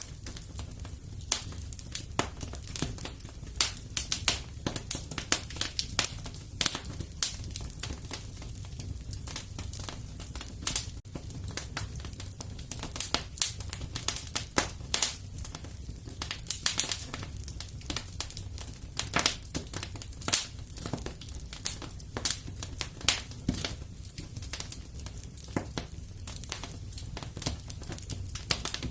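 Wood fire crackling steadily in a fireplace: irregular sharp pops and snaps several times a second over a low rumble of the burning logs.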